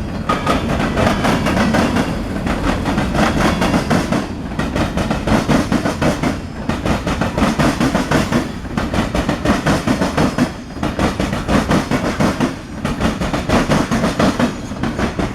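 Norfolk Southern local freight train's cars rolling past close by, steel wheels clacking over the rail joints. The sound swells and dips about every two seconds.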